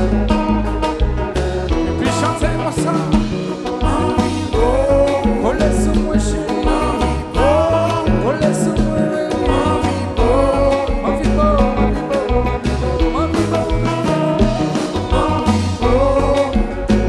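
Live Haitian band music: a singer's voice over a heavy, steady bass beat, with guitar.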